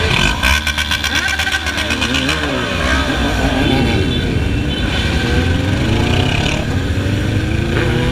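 Several motorcycle engines running together, their pitch rising and falling as they rev up and down.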